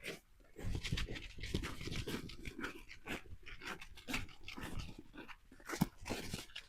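Footsteps crunching in snow, irregular and close together, with a beagle panting.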